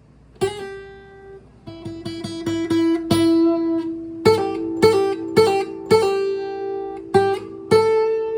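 Acoustic guitar music: plucked notes and strummed chords ringing out, after a brief quiet start.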